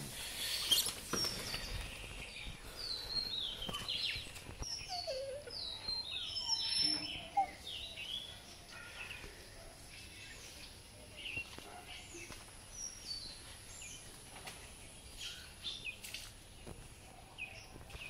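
Small birds chirping: many short, falling high-pitched chirps, busiest in the first half and sparser later, over a faint steady high whine.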